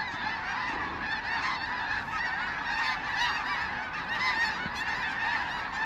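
Large flock of snow geese calling, a steady dense chorus of many overlapping honks and yelps.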